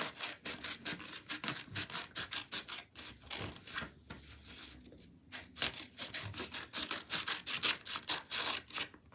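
Scissors cutting through a sheet of paper in quick repeated snips, with a pause about four seconds in before the cutting resumes.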